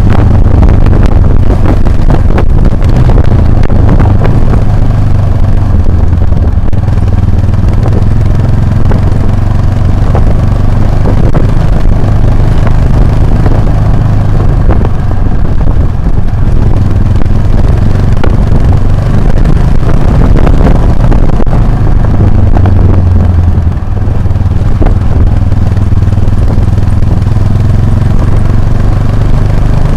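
Motorcycle engine running under way on a rough off-road track, its low drone rising and falling a little with the throttle. Rattles and knocks from the rough ground run through it, with one brief dip in level about three-quarters of the way in.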